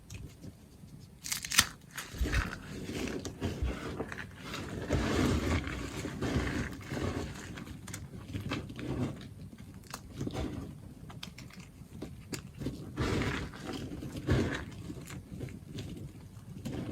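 A knife cutting through a bar of soap: an irregular run of crisp crunches and scrapes, the loudest a sharp click about a second and a half in.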